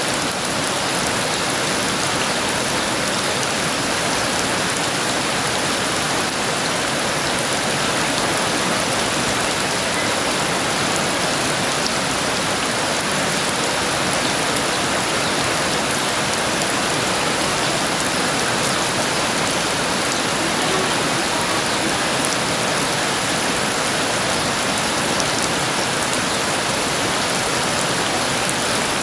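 Heavy rain falling steadily: a dense, even hiss of downpour with no let-up and no thunderclap.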